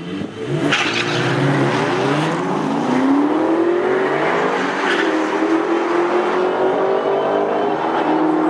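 Drag car launching off the start line and accelerating away at full throttle. The engine's pitch climbs, falls back twice at gear changes, at about two and five seconds in, and goes on rising.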